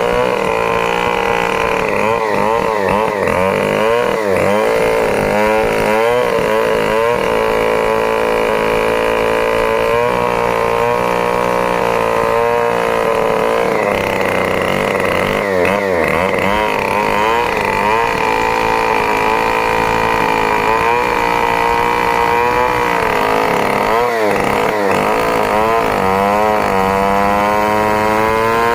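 Stihl 070 two-stroke chainsaw running hard, cutting through a log. Its engine speed dips and recovers again and again as the chain bites.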